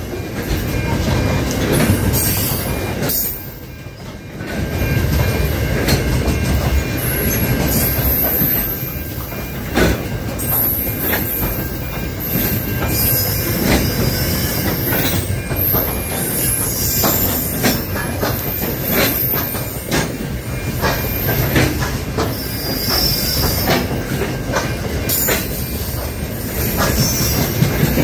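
Grain hopper wagons of an Aurizon freight train rolling past close by: a steady rumble of steel wheels on rail with irregular clacks, and a high-pitched wheel squeal that comes and goes. The sound eases briefly about three seconds in.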